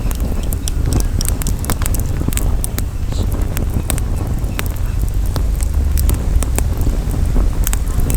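Wood campfire crackling, with frequent irregular sharp pops and snaps, over a steady low rumble of wind on the microphone.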